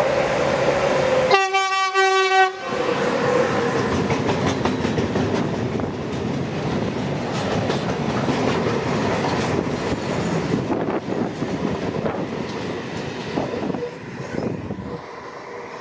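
Freight train passing close by. The electric locomotive sounds one horn blast of about a second shortly after the start. Its wagons then roll past with a steady rumble and repeated clicks of wheels over rail joints, and the sound drops as the last wagons go by near the end.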